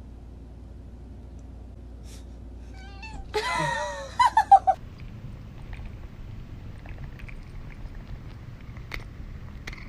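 A cat meowing: one drawn-out meow falling in pitch about three seconds in, then four short quick meows right after, the loudest sounds here.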